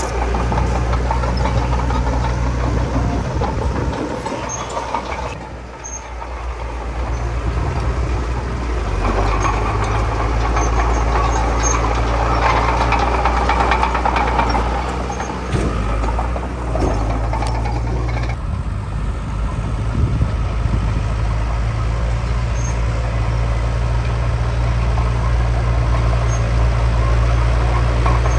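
Heavy diesel engine of an earthmoving machine running steadily under load. It eases off briefly about five seconds in, then works harder through the middle.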